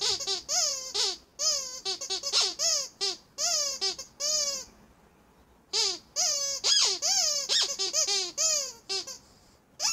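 Rubber squeeze toy squeaked over and over in quick runs, each squeak a short wavering high pitch, with a pause of about a second midway.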